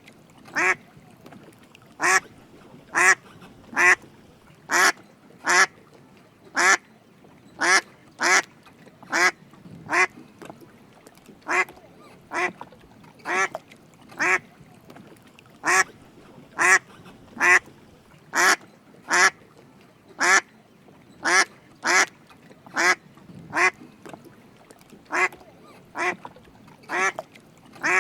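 Drake mallard duck quacking: short quacks repeated about once a second, steadily, throughout.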